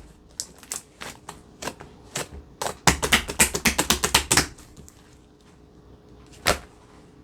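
Slime being squeezed and pressed by hand, giving sharp clicking pops of trapped air. The pops come scattered, then in a quick run for over a second about three seconds in, with one louder pop near the end.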